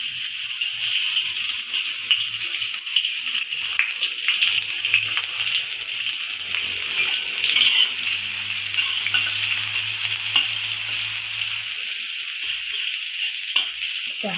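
Sliced shallots and garlic sizzling in hot oil in a wok: a steady, high frying hiss, with light scrapes and clicks as a metal spatula stirs them.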